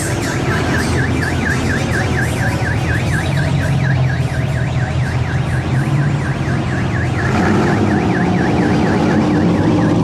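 A siren-like electronic yelp warbling rapidly up and down, about four or five sweeps a second, over a low steady rumble.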